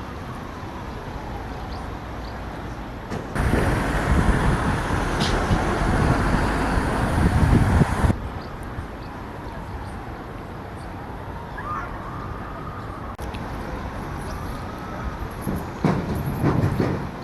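Street sounds with traffic noise. A louder stretch of vehicle noise comes in suddenly about three seconds in and cuts off suddenly about five seconds later.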